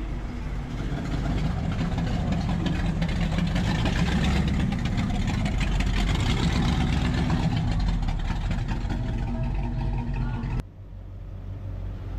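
Car engine running, louder through the middle, then cutting off abruptly near the end to a quieter low hum.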